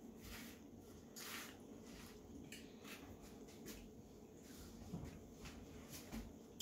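Near silence: quiet room tone with a few faint, scattered soft clicks and smacks of a person chewing food with mouth closed.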